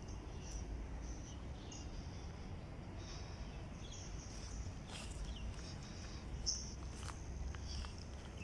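Small birds chirping: short, high chirps scattered irregularly a few times a second, over a low steady rumble.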